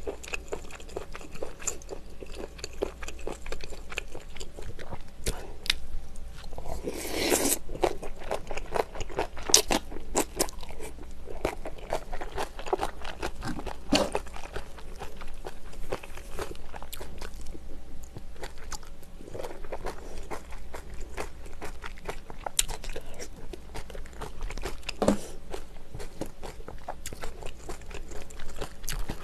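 A person chewing and crunching food close to the microphone, a dense run of small wet crunches and mouth clicks, louder for a moment about seven seconds in.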